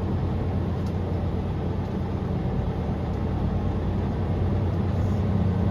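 Semi truck's diesel engine running steadily, a low hum that grows a little louder near the end.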